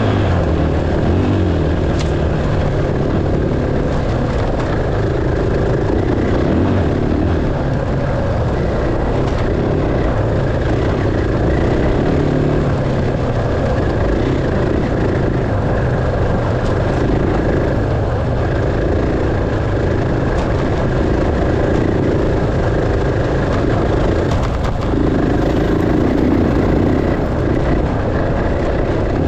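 Enduro dirt bike engine running steadily and loudly while riding, with the throttle opened and eased off every second or two so the engine note rises and falls.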